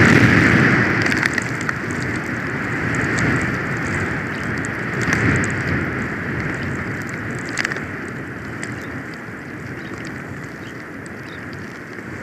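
Storm wind gusting over the nest camera's microphone, loudest at first and swelling twice more before slowly easing, with a few faint clicks.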